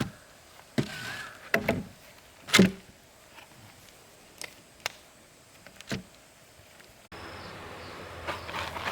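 Irregular knocks and clacks, a few to a second at first and then more spread out; the loudest comes about two and a half seconds in. From about seven seconds a steady low hum with a noise bed takes over.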